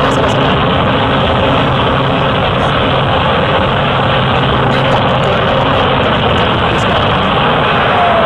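Cessna light aircraft's piston engine and propeller running steadily, heard up close from a camera mounted on board.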